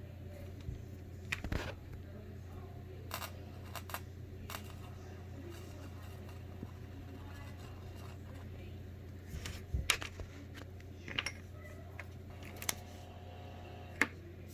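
Electrical hum from a 3.5mm audio cable on a computer monitor's audio port, with sharp crackles and pops as a finger or wire touches the exposed contacts. The low hum runs steadily, and the pops come irregularly, most thickly about ten seconds in.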